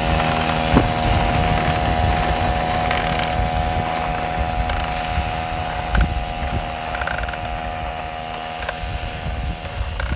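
Small engine of a motorized bike running at a steady pitch, slowly growing fainter, with some rattling knocks.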